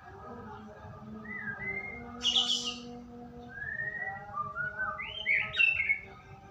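White-rumped shama singing: clear whistled phrases with sliding notes, broken by louder, harsher bursts about two seconds in and again around five seconds.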